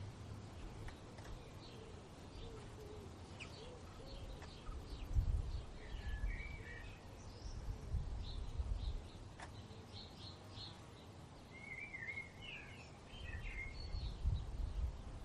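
Small songbirds chirping and warbling in short, scattered phrases, busiest about a third of the way in and again past the middle. Under them are bursts of low rumble, loudest about a third of the way in and again near the end.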